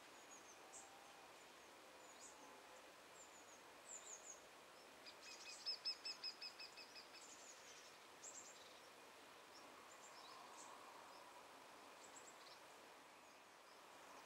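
Faint wild birdsong: scattered short, high chirps, and near the middle a quick trill of a dozen or so evenly spaced notes lasting about two seconds, over a soft outdoor hiss.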